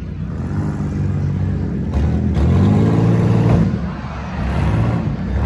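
Demolition derby car engines revving up and down in repeated rising and falling surges, loudest about halfway through.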